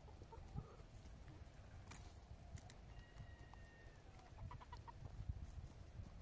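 Faint calls of domestic fowl or other birds: a thin held whistle-like note about halfway through, then a quick run of short notes, over a low steady rumble.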